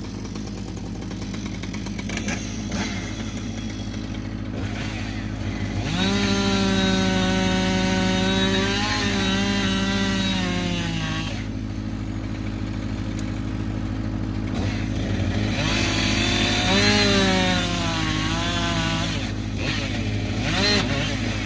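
Two-stroke chainsaw idling, then opened up to full throttle twice for cuts of several seconds each. Each time the engine note climbs, holds and sags as the chain bites, and a third rev starts near the end.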